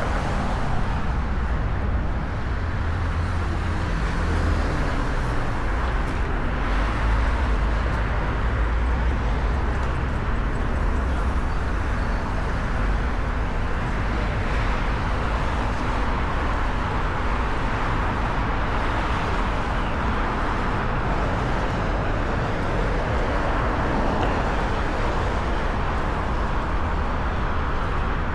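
Steady city street traffic: car engines and tyres, with a constant low rumble.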